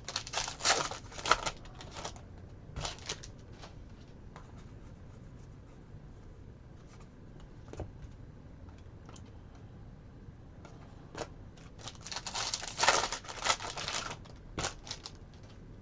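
Trading cards and pack wrapper being handled: short rasping bursts of cards sliding and flipping, with a longer, denser rustling burst near the end.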